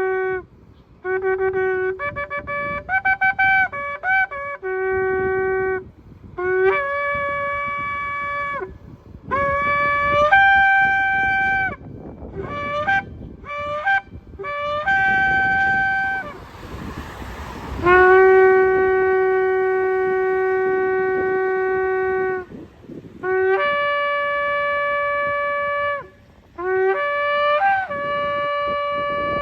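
Shofar (ram's horn) blowing: a string of blasts, first short broken notes, then long held notes, each sounding a bright, brassy tone that switches between two pitches. Around the middle a breathy rush of air sounds between the blasts.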